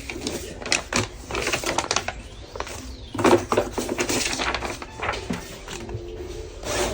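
Irregular taps, clicks and rustles of objects being handled, such as paper and folders being sorted and put away.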